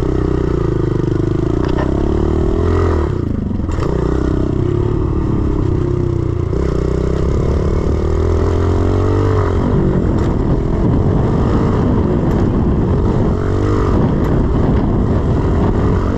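A 110cc single-cylinder four-stroke pit bike engine being ridden hard over a dirt track, its revs rising and falling with the throttle. There is a sharp drop in revs about three seconds in, and the revs swing up and down more often in the second half.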